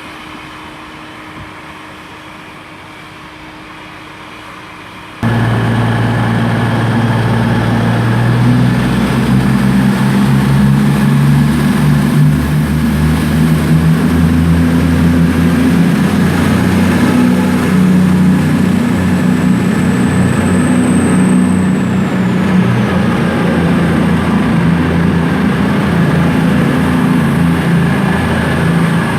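A pair of coupled Class 221 Super Voyager diesel-electric trains pulling away, their underfloor diesel engines running hard under power, with the engine note slowly rising. The sound cuts in suddenly about five seconds in, after a quieter stretch. About two-thirds of the way through there is a brief high squeal that falls in pitch.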